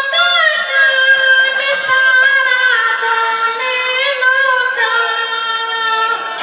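A man singing a short song verse in a high falsetto, imitating a woman's singing voice, with long held notes that slide and waver between pitches.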